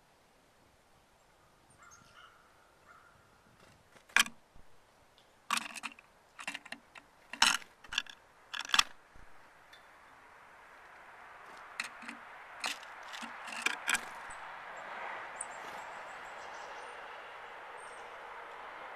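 A run of sharp clicks and taps, bunched between about four and nine seconds in and again around twelve to fourteen seconds, over a steady hiss that grows louder from about halfway.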